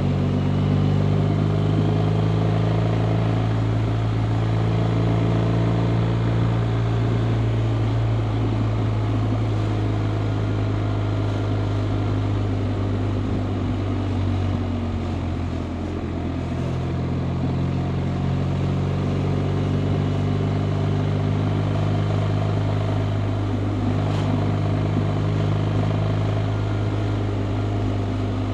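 BMW R 1250 RT's boxer twin engine running steadily while riding at a cruise, with road and wind noise; the engine note dips briefly about halfway through, then settles back to a steady pull.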